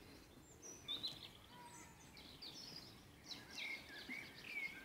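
Songbirds singing: faint, varied high chirps and short falling whistles, getting busier about halfway through.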